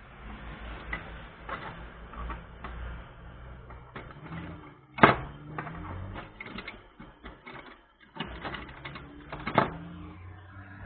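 Irregular light clicking and tapping of small tools on a phone-repair workbench, with two sharper, louder clicks, one about halfway through and one near the end.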